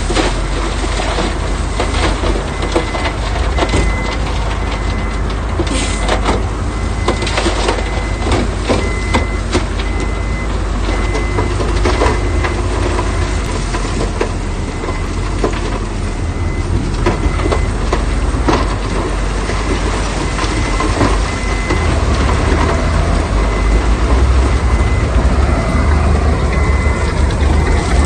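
Heavy earthmoving machinery running at work, its diesel engine rumbling, while loose stone crunches and knocks, with a reversing alarm beeping at an even pace throughout.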